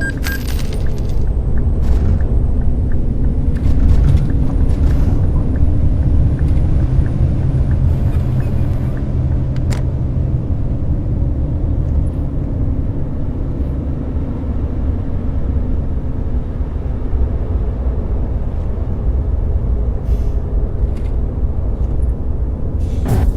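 Steady low rumble of a Scania K420 double-decker coach under way: engine and road noise, with a few faint clicks and rattles.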